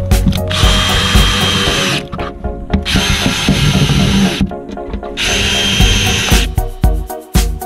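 An electric power tool runs in three bursts of about a second and a half each, two of them with a steady high whine, over background music with a steady beat.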